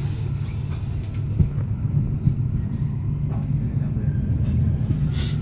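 Steady low rumble of an SBB InterRegio passenger train running, heard from inside the carriage as it pulls out. There are a few faint clicks and a short hiss near the end.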